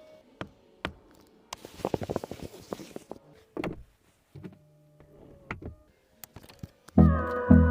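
Scattered mechanical clicks and knocks of a car's doors and interior controls, with a busier clicking stretch about two seconds in. Loud music with a steady beat comes in near the end.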